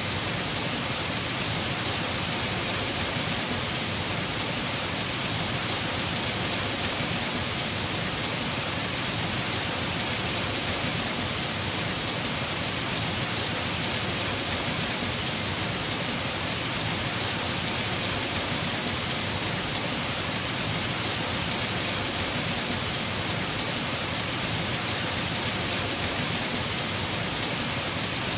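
Heavy rain falling steadily on a house roof, an even, unbroken hiss of drops.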